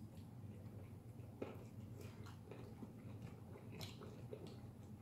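Faint chewing, with a few light clicks of a fork against a plate, over a low steady room hum.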